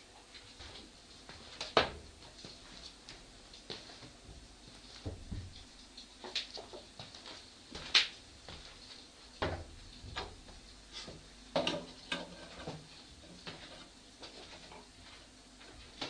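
Irregular knocks and taps, about a dozen scattered sharp ones, the loudest near 2 seconds and 8 seconds in. The owner takes them for knocking from the neighbours upstairs.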